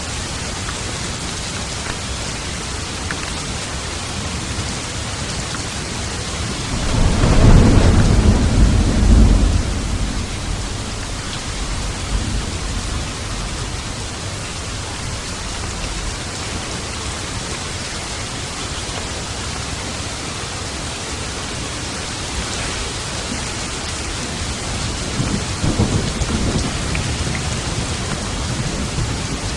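Steady heavy rain with thunder: a loud, deep rumble of thunder swells about seven seconds in and fades over a few seconds, and a weaker rumble comes near the end.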